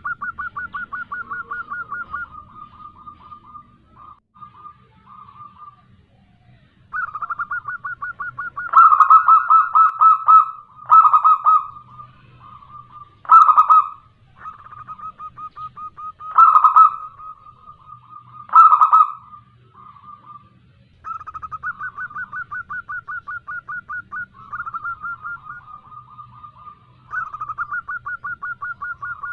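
Local zebra dove (perkutut), given as a female, calling repeatedly. Runs of fast staccato cooing trills are broken by louder, fuller coos through the middle, with short pauses between phrases.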